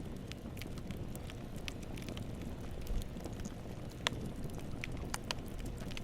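Wood campfire burning: a steady low rumble of flames with scattered sharp crackles and pops, one louder pop about four seconds in.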